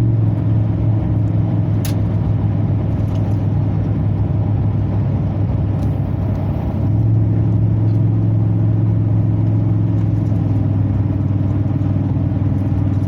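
A 2003 Chevrolet Silverado 2500HD's V8 running through an aftermarket FlowFX exhaust while driving, heard inside the closed cab as a steady low drone. The drone eases slightly about six seconds in, then comes back louder and holds steady.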